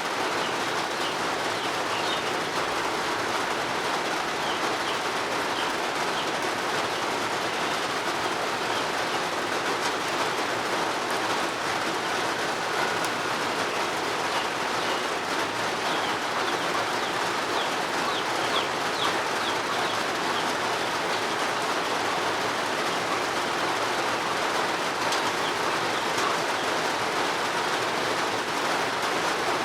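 Steady rain falling, an even hiss of drops, with small birds chirping faintly now and then.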